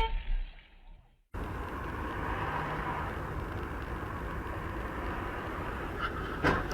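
Steady car engine and road noise, starting after a second of dead silence about a second in, with a short sharp click near the end.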